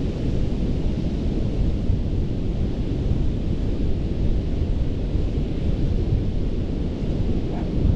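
Ocean surf on a sandy beach: a steady, deep rumble of waves with no distinct breaks.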